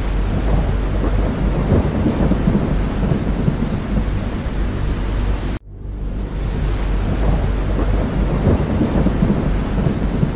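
Steady rain over a continuous deep drone, as of aircraft engines. It is a short loop that cuts out for a moment about five and a half seconds in and then starts over.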